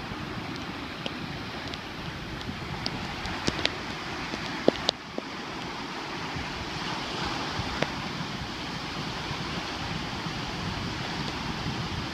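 Surf washing onto a sandy beach with wind on the microphone: a steady rushing noise, broken by a few sharp clicks in the first half.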